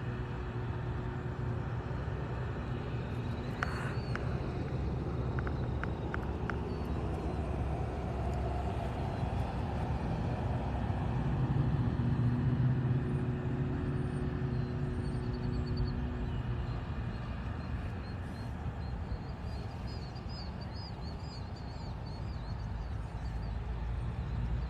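A steady low rumble with an engine-like hum, as of a motor vehicle running, which stops about two-thirds of the way through. A few light clicks come around four to seven seconds in, and small birds chirp in the last third.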